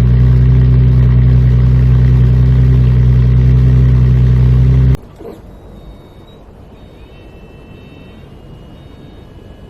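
Ford Mustang 4.0 V6 engine idling steadily and loudly through its exhaust, then cut off suddenly about five seconds in, leaving a quiet background with a few faint high tones.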